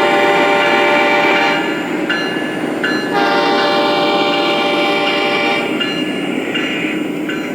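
Model locomotive's sound system blowing its horn: two long blasts, then a few shorter toots, over the running noise of the train on the layout.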